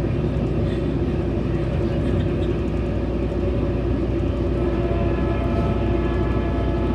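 Steady rumble of a Metrolink commuter train in motion, heard from inside a passenger coach. Faint steady tones join the rumble about halfway through.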